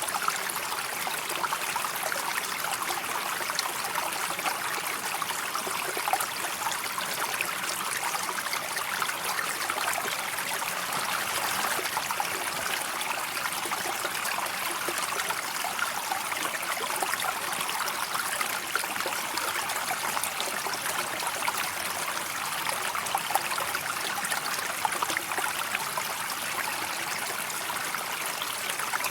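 River water flowing steadily, a continuous even babble and trickle that does not pause or change.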